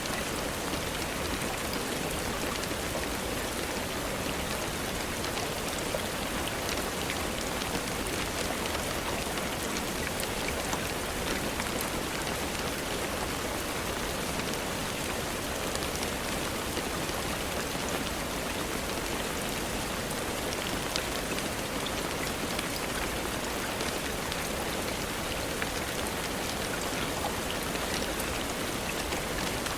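Steady rainfall, an even hiss of rain with scattered faint ticks of individual drops.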